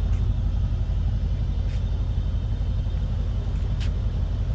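Steady low rumble, with two faint clicks partway through.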